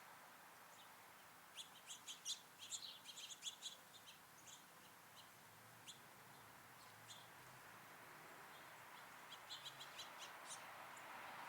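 Small songbirds giving short, high chirps: a quick run of them about two seconds in, a few scattered ones after, and another cluster near the end, over a faint steady background hiss.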